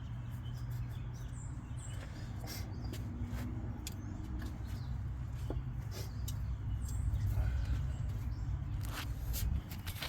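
Birds chirping over a steady low rumble, with a few light clicks and taps scattered through.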